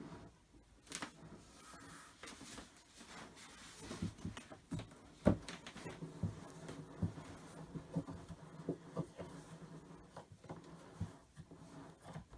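Scattered light clicks, taps and rubbing from handling the parts of a flat-pack IKEA kitchen cupboard during assembly, with a sharper knock about five seconds in, over a faint steady low hum.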